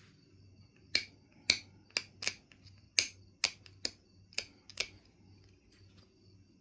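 Knife River Flint being knapped: about nine sharp, ringing clicks, roughly two a second, starting about a second in and stopping near five seconds.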